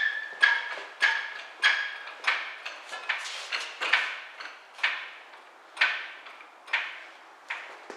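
A steady series of sharp knocks, about one every 0.6 s. The first few carry a short metallic ring.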